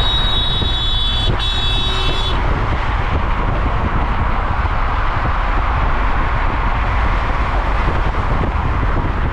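Car on the move: a steady rush of road and wind noise with a deep rumble underneath. A high-pitched electronic tone sounds twice over the first two seconds.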